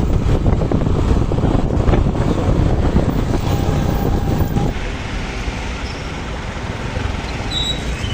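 Wind buffeting the microphone over the rumble of road traffic while moving, easing off a little about five seconds in.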